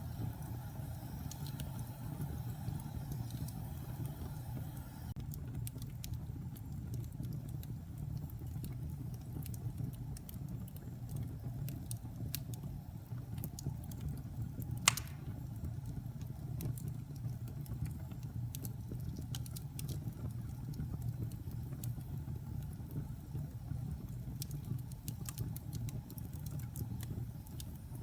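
Wood fire burning in a fireplace: a steady low rumble of flames with scattered light crackles, and one sharp, louder pop about halfway through.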